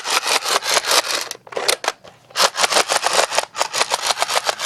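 Toy gun's mechanism clicking rapidly as the trigger is pulled over and over, about nine sharp clicks a second. The clicks come in two long runs with a short break in the middle.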